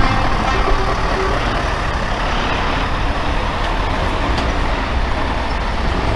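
Heavy trucks' diesel engines running as they drive past, a steady low rumble with broad road noise.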